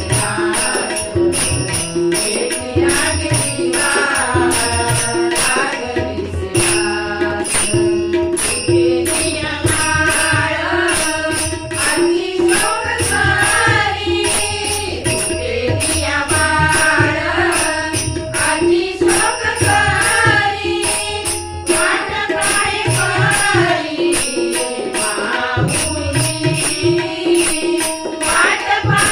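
Marathi devotional abhang music played on harmonium, tabla and tal (small hand cymbals), with a melody over a steady drum-and-cymbal beat.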